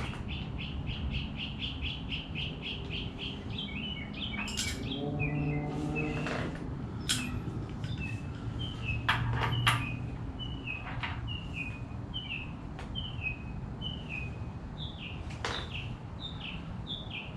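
A small songbird chirping over and over: a quick run of even chirps for the first few seconds, then short down-slurred chirps about once or twice a second. A few sharp knocks sound in between.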